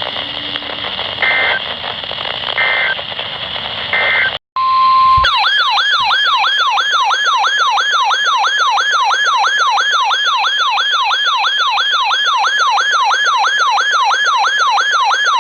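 Emergency alert broadcast audio: three short data-burst chirps over radio hiss, typical of an EAS end-of-message code. Then, after a moment's silence, a short steady tone leads into a loud electronic warbling alert tone that sweeps up and down about two to three times a second and cuts off suddenly at the end.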